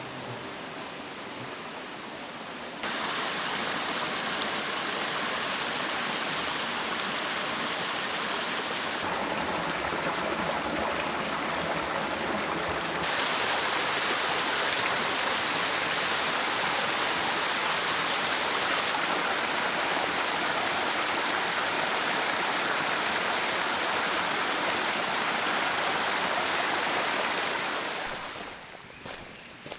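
Mountain stream flowing, a steady rush of water that jumps abruptly louder or softer a few times and drops away near the end.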